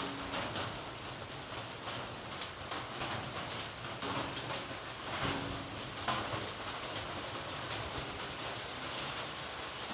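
Steady light drizzle falling outdoors, an even hiss of rain with scattered faint drips and ticks.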